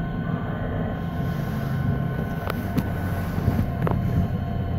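Passenger train running, heard from inside the carriage: a steady low rumble with a faint hum, and three short clicks from the wheels on the track in the second half.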